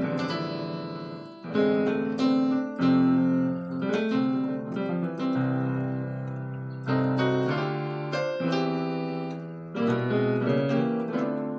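Keyboard playing a slow run of gospel-style block chords, each struck and held with the bass note moving under it, the chord changing every second or so.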